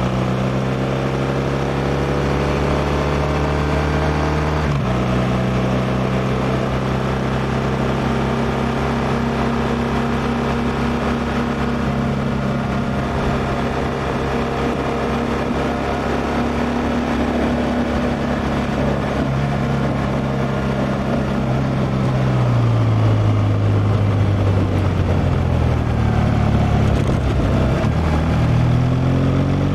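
BMW R1200R's liquid-cooled boxer twin running under way, with wind and road noise. The engine note holds steady, sags about two-thirds of the way through as the bike slows, then climbs again near the end.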